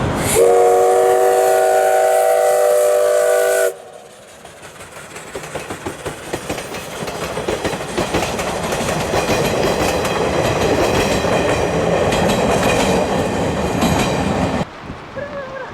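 Steam locomotive C12 66 blowing one long whistle blast of about three seconds that cuts off sharply. Then the train approaches and runs past, the clatter of wheels on the rails growing louder and stopping abruptly near the end.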